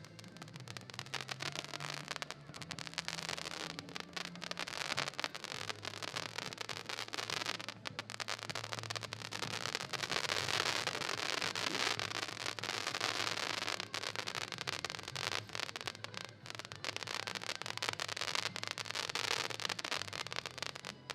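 Weco New Moon 110-shot firework battery firing: a dense, continuous run of sharp cracks and crackling bursts, at its loudest about halfway through.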